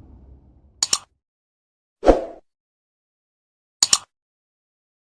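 Short edited sound effects over dead silence: a quick double click about a second in, a brief burst at about two seconds, and another double click near four seconds.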